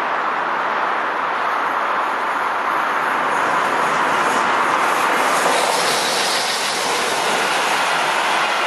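A train passing at speed: steady rushing noise of wheels on rail that swells a little in the second half.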